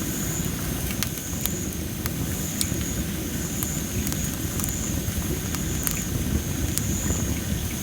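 Dry masaki (Japanese spindle) firewood burning in a campfire, crackling with sharp, irregular pops over a steady low rumble. A thin high trill sounds in short repeated phrases behind it.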